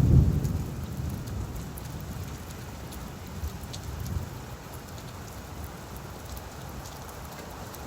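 Steady rain falling on leaves: an even hiss with scattered sharp drop ticks. A low rumble fades away over the first second or so.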